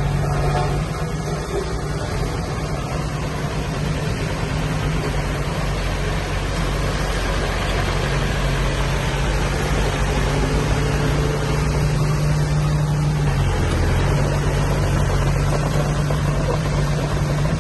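Heavy diesel engine of earthmoving machinery, a bulldozer or dump truck, running steadily with a deep, even hum.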